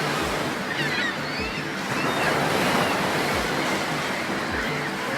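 Waves washing onto a shallow lake beach, under background music with deep bass thuds and low held notes.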